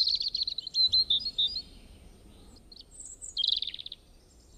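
A songbird singing: a fast trill with a few chirps at the start, then a second, shorter trill about three and a half seconds in.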